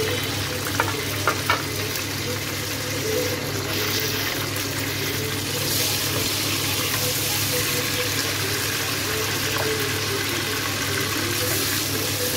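Chopped tomatoes sizzling steadily in hot oil in a non-stick kadhai while a wooden spatula stirs them. There are three light knocks in the first two seconds.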